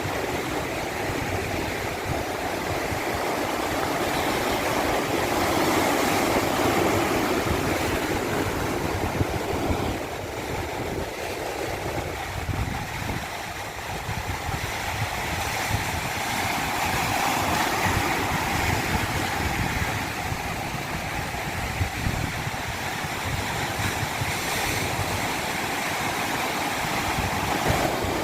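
Steady rush of moving water, swelling louder and easing off slowly over several seconds at a time.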